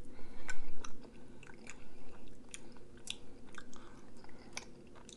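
A person chewing food with the mouth, making irregular sharp wet clicks about two or three times a second.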